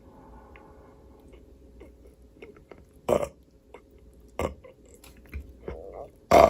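Close-miked mouth sounds of someone eating: quiet chewing, then several short, loud burp-like bursts in the second half.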